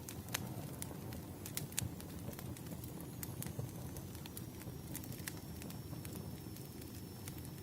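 Firewood burning: a low steady rumble of flames with irregular sharp crackles and pops. A faint, thin high whistle comes in about three seconds in.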